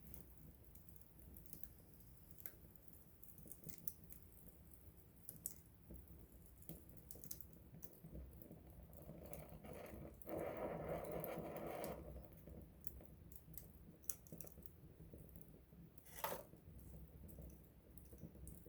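Wood campfire crackling softly, with scattered small pops and ticks. About ten seconds in there is a two-second stretch of louder hissing, and near the end a sharper crack.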